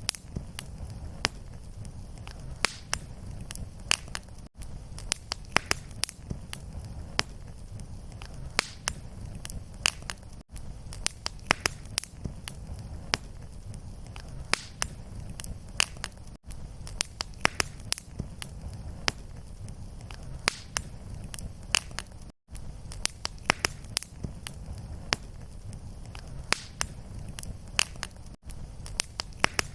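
Fireplace wood fire crackling, with frequent sharp pops and snaps over a steady low rumble of the flames. The sound breaks off for an instant about every six seconds where the looped recording restarts.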